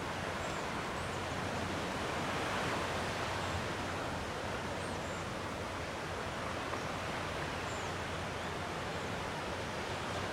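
Gentle sea waves washing on the shore in a steady, even wash that swells slightly a couple of seconds in. A few faint, short high bird chirps come and go above it.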